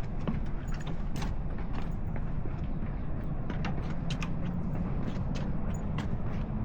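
Footsteps of a person walking, heard as irregular sharp clicks over a steady low rumble.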